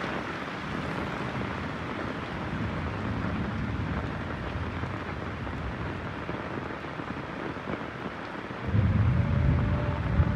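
Steady heavy rain, with a low rumble of thunder breaking in suddenly near the end and growing louder.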